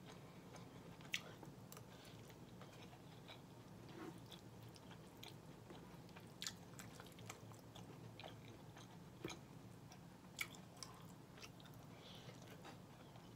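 Faint chewing of soft food (rice and collard greens), with scattered small clicks of the mouth and fork.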